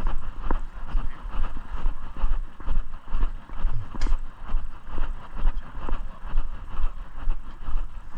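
Walking footsteps at an even pace, about two steps a second, each step bumping the microphone into a low rumble.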